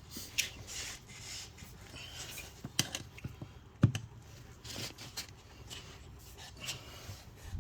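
Irregular rubbing and scraping of hand tools against a lawn tractor tire and its steel rim, with scattered clicks and two sharper knocks about three and four seconds in, as the tire bead is being worked loose from the rim.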